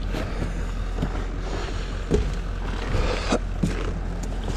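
A steady low engine hum, with a few light knocks and clicks over it.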